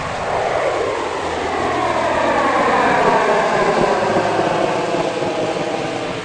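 A loud rushing roar that swells and then fades, its pitch falling throughout like a jet or rocket passing overhead. It is a cartoon sound effect, heard just before talk of a huge explosion.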